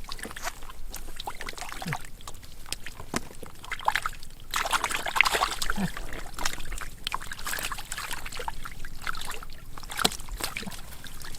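Water splashing and trickling in a run of short, irregular splashes, busiest about halfway through.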